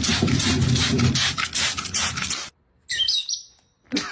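Parrot vocalising: a stretch of rapid, harsh, noisy calls, then after a short pause a brief high warbling whistle.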